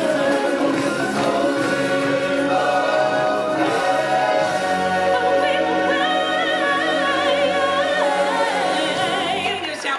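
Choir of voices singing over loud backing music, holding long notes with vibrato; the music stops just before the end.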